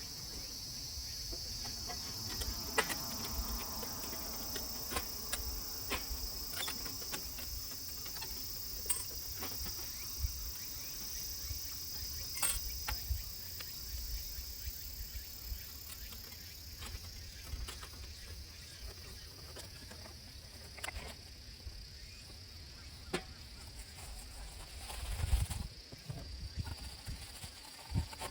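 Insects chirping in a steady high-pitched chorus that thins out about two-thirds of the way through, with scattered light clicks and knocks over it.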